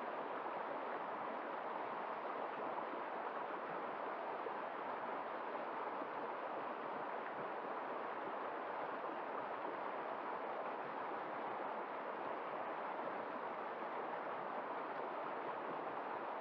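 Woodland stream flowing over rocks: a steady, even rush of water.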